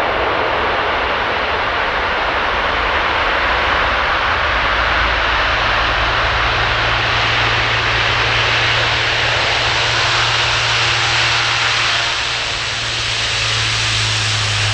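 Airliner's engines running loud and steady at close range, a dense rush of noise that turns hissier in the second half.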